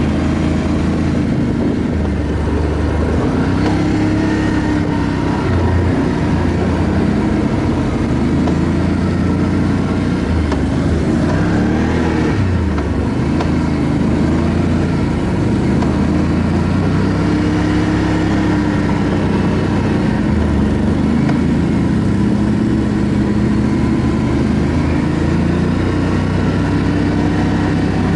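ATV engine running under way, its pitch rising and falling repeatedly as the throttle is worked.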